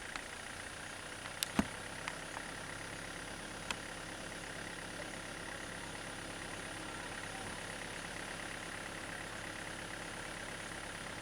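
A vehicle engine idling steadily, with a few sharp clicks in the first four seconds.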